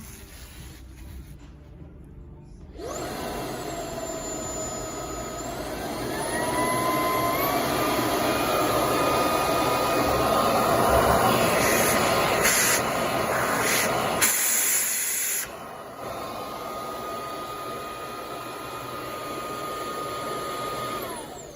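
Makita CL003G 40Vmax cordless cyclone stick vacuum switched on, its motor whining up to speed. It steps up to a louder setting a few seconds later and drops back to a quieter one about two-thirds of the way through. Near the end it is switched off and the whine falls away.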